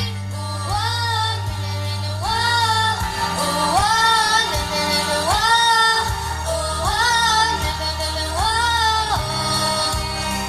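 A young girl singing over a pop backing track: a line of about six held notes, each swelling up in pitch and falling away, over a steady bass.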